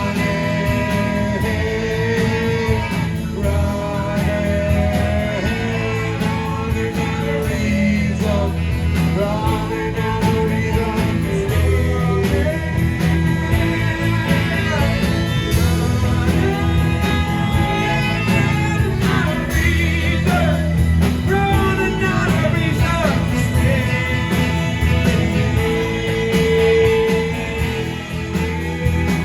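Live rock band playing a blues-rock song, with pitch-bending lead lines over bass and drums.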